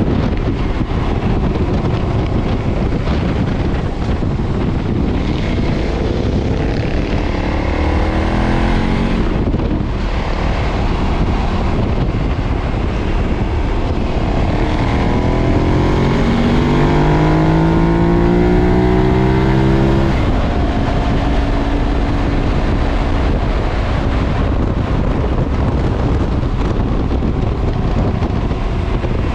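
2013 KTM 990's V-twin engine running through its stock exhaust while riding, with wind noise on the microphone. In the second half the engine note climbs steadily for several seconds under throttle, then drops off abruptly as the throttle closes.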